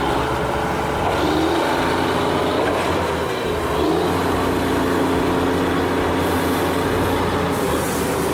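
Heavy truck engine sound effect running steadily, with a continuous low rumble.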